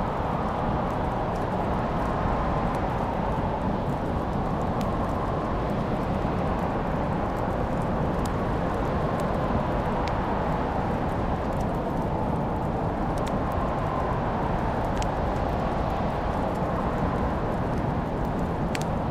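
Wood fire crackling, with scattered sharp pops every second or two over a steady rushing noise that slowly swells and fades.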